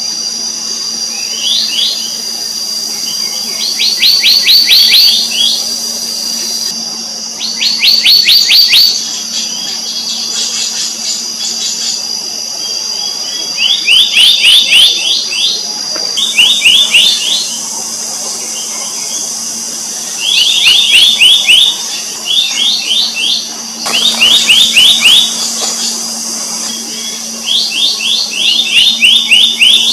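Black-naped monarch calling: a rapid series of ringing notes lasting about a second, repeated every few seconds, about ten times. It calls over a steady high insect drone.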